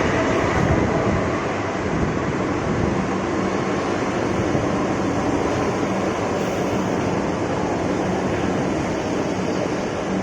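Kolkata Metro train running, a steady rushing noise with a faint low hum coming in a few seconds in.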